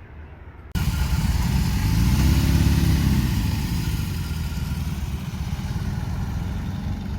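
Motorcycle engine coming in abruptly about a second in, its pitch rising and falling in a brief rev, then running steadily.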